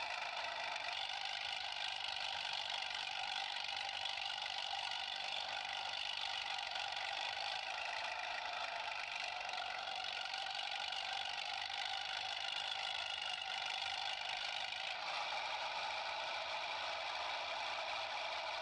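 Toy vehicle running steadily with a thin engine-like buzz that has no low rumble; its tone shifts slightly about fifteen seconds in.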